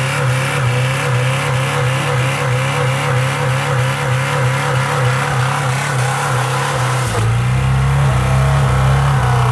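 Saturn S-series 1.9-litre four-cylinder engine, run with no oil, held at high revs with a regular pulse. About seven seconds in the sound turns deeper and a little louder as the oil-starved engine starts to fail and pours white smoke.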